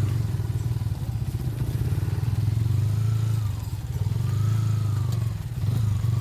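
A small engine running steadily, with an even, fast-pulsing low hum throughout.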